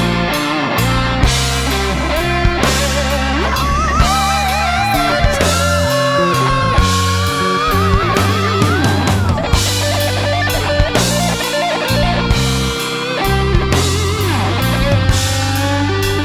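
Rock band recording: a lead electric guitar plays a solo of bent, wavering notes with vibrato over bass guitar and drums.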